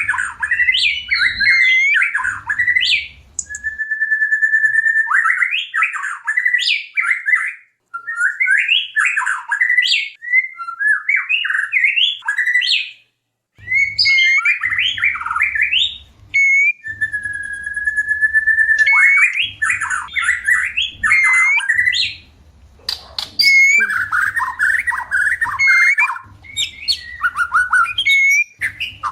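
White-rumped shama (murai batu) singing a varied, loud song in short phrases with brief pauses, some opening on a long steady whistle; the song of a bird in breeding condition.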